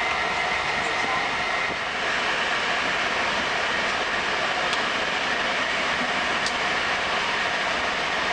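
Steady running noise inside a passenger train carriage at speed: wheels rolling on the rails and air rushing past the car, with a faint steady whine underneath.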